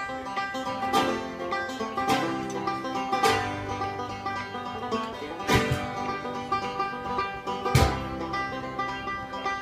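Bluegrass-style band music, led by fast banjo picking over strummed guitar, with a strong accented beat about once a second.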